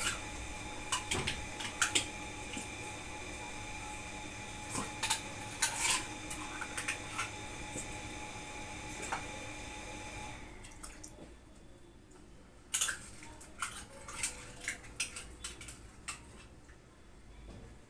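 Kitchen utensils clinking and knocking against a dish and pan, with some dripping and liquid sounds, while sauce and liquid are added to the chicken and potatoes. A steady background hum carries under it and cuts out about ten seconds in, after which only scattered clicks remain.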